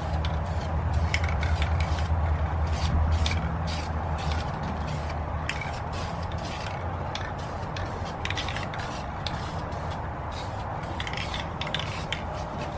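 Aerosol can of primer spraying in many short bursts of hiss, over a low steady hum that is louder in the first few seconds.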